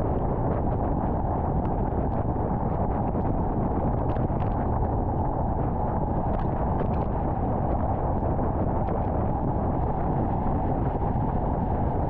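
Steady road and wind noise of a car driving at highway speed, a constant low rumble with faint scattered ticks.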